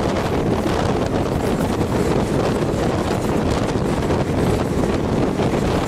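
Wind buffeting the microphone through an open train window, over the steady rumble of the moving passenger train on the track.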